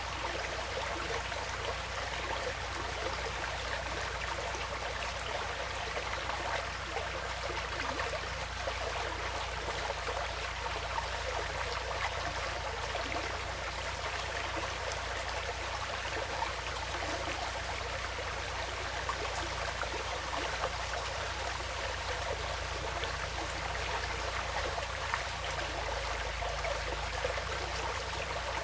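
Woodland stream flowing steadily, a continuous trickling of water, with a low steady rumble underneath.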